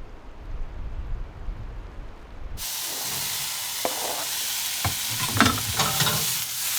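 Low wind rumble for the first couple of seconds, then an abrupt change to a tofu stir fry sizzling loudly in a pan, with a few knocks and scrapes from the utensil stirring it.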